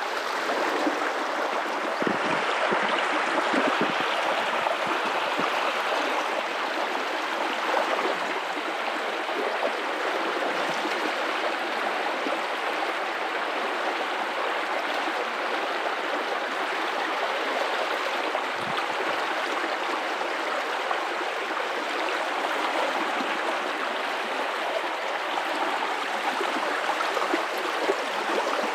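Guadalupe River water flowing and rushing steadily over rocks, an even continuous rush with a little gurgling.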